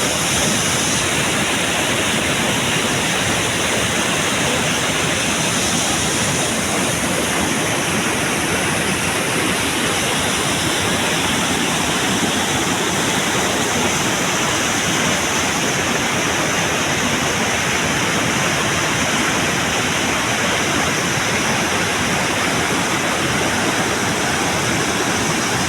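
Large waterfall thundering, a loud, steady rush of falling water.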